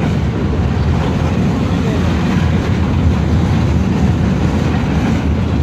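Freight train of open box wagons rolling past on the track, a steady rumble of wheels on rails.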